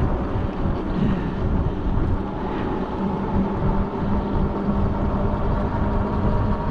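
Wind buffeting the microphone on a fast-moving electric bike, with a steady whine from the e-bike's motor that grows stronger about halfway through.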